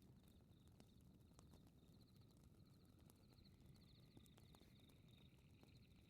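Faint fireplace crackling: scattered sharp pops over a low steady rumble. Insects chirp throughout in quick, repeated high trills.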